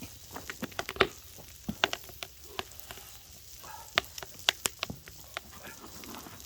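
Food grilling over a log wood fire: irregular sharp crackles and pops over a faint hiss.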